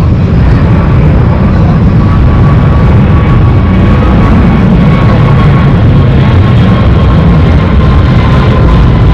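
Jet airliner's engines passing at close range: a loud, steady low rumble with a thin whine held on one note.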